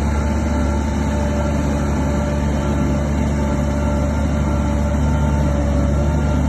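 Shantui DH17 bulldozer's diesel engine running steadily: an even low rumble with a constant whine above it.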